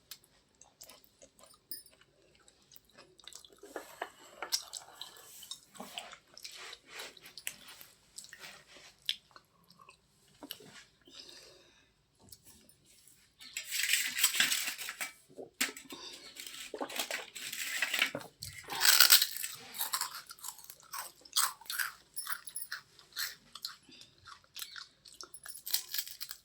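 Close-miked chewing and crunching of crunchy white chips: many short, crisp cracks, with two louder, denser stretches of crunching partway through.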